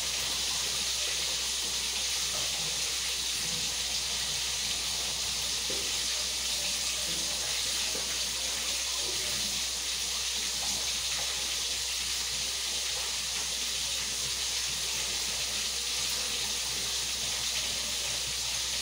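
Garlic and ginger sizzling steadily in hot oil in a pan.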